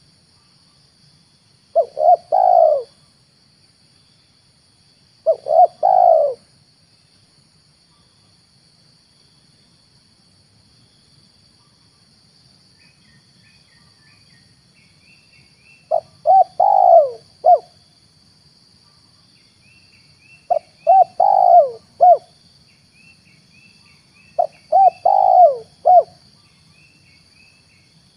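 Spotted dove (tekukur) cooing in five separate phrases several seconds apart, used as a lure call for wild and captive doves. The first two phrases are short, with three notes each; the last three are longer, with four or five notes. Faint high chirping and a steady faint hiss sit beneath.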